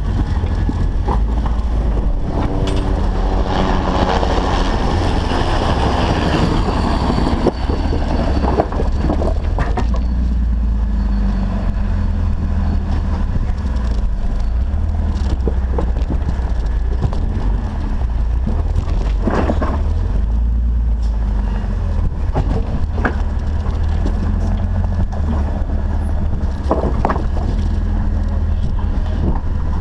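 Off-road Jeep's engine running with a steady low rumble. A rushing noise comes in the first several seconds, and scattered knocks and clicks follow.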